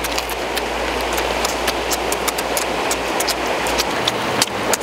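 Close-up eating sounds: cucumber crunching and squid being chewed and sucked, with many sharp clicks and smacks over a steady hiss.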